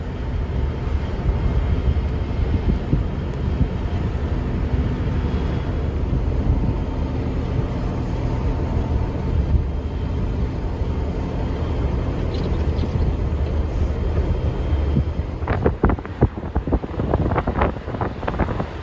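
Steady low rumble of a running vehicle engine mixed with wind noise; in the last few seconds a run of sharp clicks and knocks.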